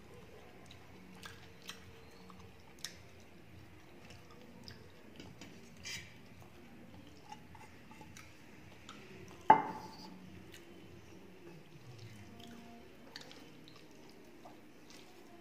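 Close chewing and small wet mouth clicks while eating rice and fish by hand. About two-thirds of the way through comes one sharp metallic clink with a brief ring, a stainless-steel bowl striking the metal plate.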